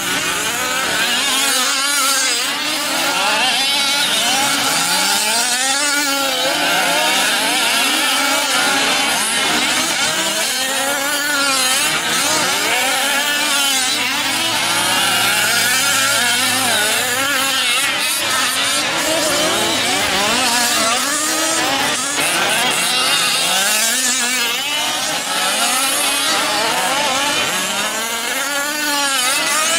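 Several 1/5-scale RC off-road trucks' small two-stroke gasoline engines racing, revving up and down over and over in overlapping rising and falling whines.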